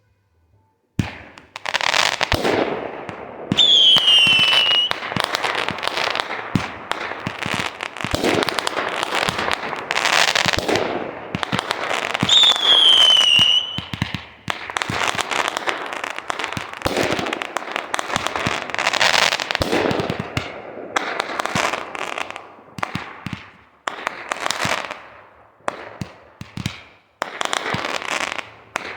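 Fireworks going off: a dense string of bangs and crackling that starts about a second in, with two whistling shells falling in pitch, and cuts off suddenly near the end.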